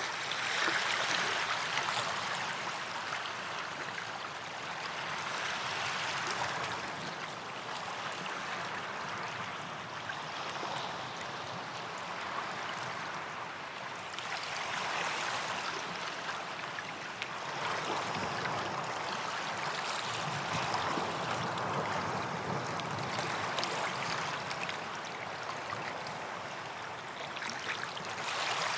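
Small sea waves washing onto a sandy beach, a hiss that swells and fades again every few seconds.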